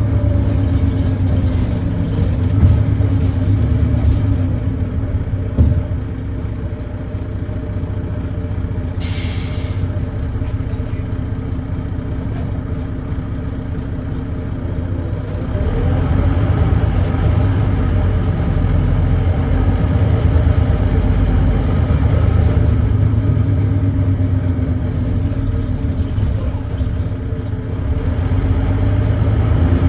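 Volvo B9TL bus's Volvo D9B 9.3-litre diesel running, with the harsh thrash that is put down to an exhaust leak. It drops back to quieter running for a stretch, with a short air hiss about nine seconds in, then pulls away louder from about halfway.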